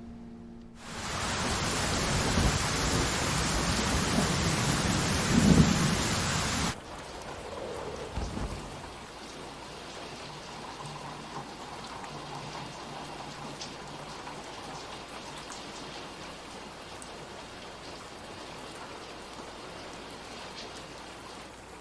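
Heavy rain with a low rumble of thunder about five seconds in. It cuts off suddenly near seven seconds, leaving a fainter, steady rain-like hiss.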